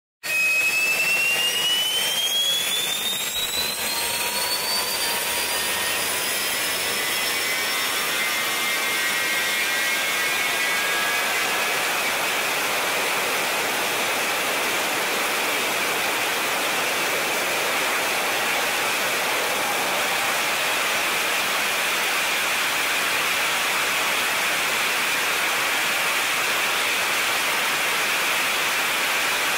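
Jet engine running on test: a high turbine whine rises in pitch over the first few seconds, then settles into a steady, loud roar with the whine held high above it.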